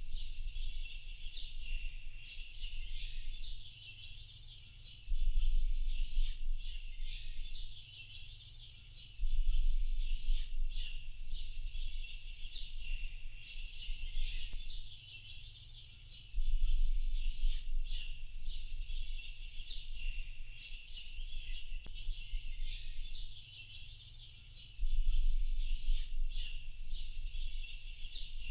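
Dense chorus of many small birds chirping continuously, high-pitched and overlapping. Underneath, a low rumble swells in and fades out again several times.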